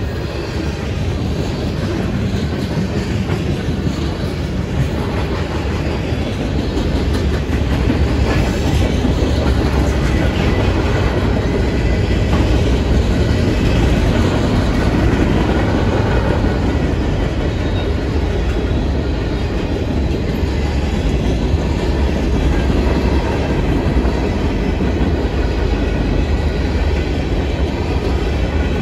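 Freight train rolling past, its railcar wheels clattering rhythmically over the rail joints with a steady low rumble. It grows louder over the first several seconds, then holds steady.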